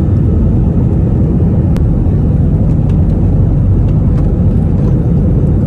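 Steady, loud, low rumble of an airliner heard from inside the passenger cabin: engine and airframe noise. A brief click about two seconds in.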